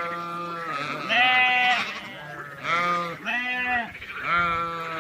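Sheep and lambs bleating, about five drawn-out calls in quick succession, some overlapping, with higher and lower voices.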